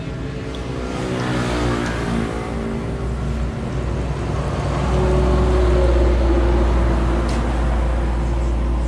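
A motor vehicle engine rising in pitch as it accelerates over the first few seconds, then running steadily with a loud low rumble.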